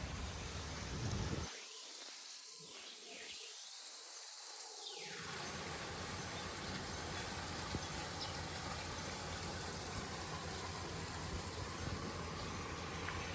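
Steady outdoor ambience, an even hiss-like noise. The low rumble beneath it drops away for a few seconds near the start, then returns.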